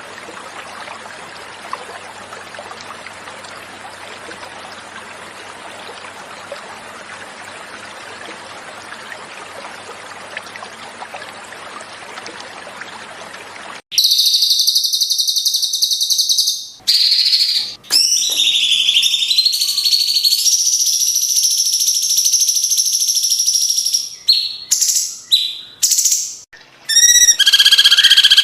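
Flowing water runs steadily for about fourteen seconds, then cuts off abruptly into loud cucak cungkok song: long, high ringing trills and chirps, broken by short pauses and a run of quick rising notes near the end.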